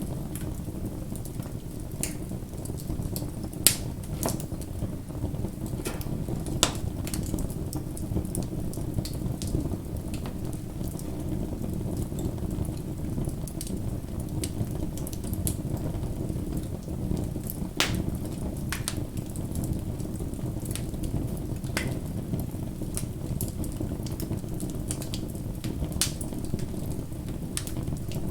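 Campfire burning with a steady low rush, broken by scattered sharp crackles and pops from the wood; the loudest pops come about four seconds in and about seven seconds in.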